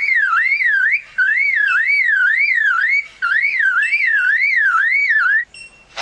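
Superb lyrebird mimicking a car alarm: a loud whistled wail that rises and falls about twice a second, in runs with two short breaks, stopping shortly before the end.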